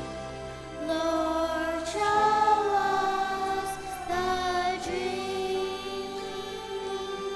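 Music with voices singing long held notes over a steady accompaniment, the notes changing every second or two.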